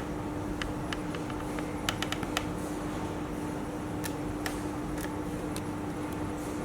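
CNC machine running with a steady hum and a constant low tone, with irregular sharp clicks and ticks, a quick cluster of them about two seconds in.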